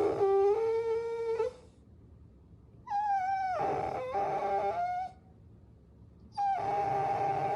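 Puppy whining: three drawn-out, high-pitched whines, each lasting about two seconds, with short pauses between them.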